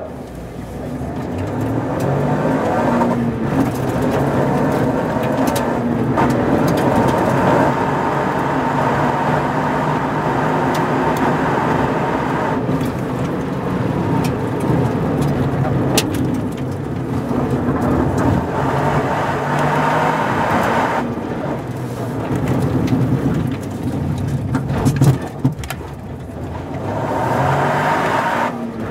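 Toyota GR Yaris rally car's turbocharged 1.6-litre three-cylinder engine, heard from inside the cabin, launching from a standstill and accelerating hard up through the gears, its note climbing and dropping back at each shift every few seconds. Near the end it slows sharply, then picks up again.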